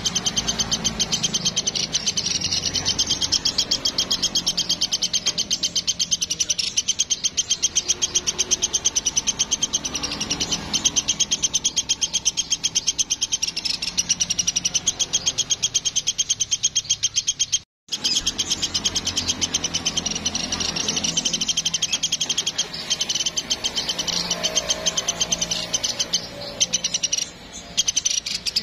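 Woodpecker calling in a fast, unbroken chatter of high, evenly repeated notes, stopping for a moment about eighteen seconds in, then carrying on.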